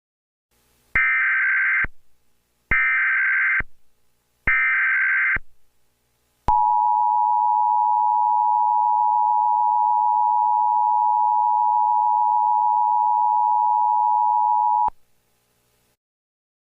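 Emergency Alert System tones: three short bursts of SAME header data, each just under a second, followed by the steady two-tone attention signal for about eight seconds, which stops abruptly. It is the signal that opens an emergency alert broadcast.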